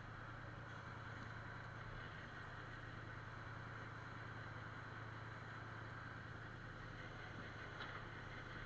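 An engine running steadily at a constant speed, a low even hum with a faint click near the end.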